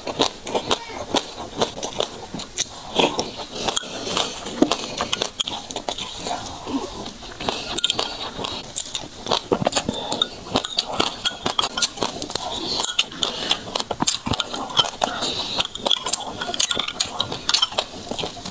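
Close-up chewing of a mouthful of wet sesame seeds: dense, quick crackling clicks and soft mouth sounds that go on without a break.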